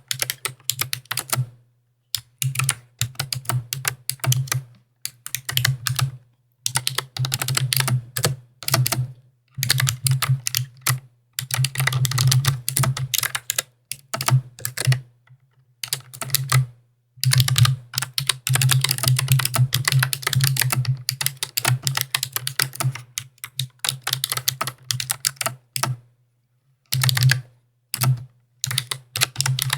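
Typing on a mechanical keyboard: fast runs of keystrokes, each run broken by a short silent pause of about a second.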